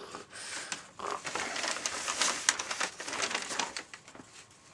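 Paper bag puppets rustling and crinkling as they are handled, a run of small crackles that dies away near the end.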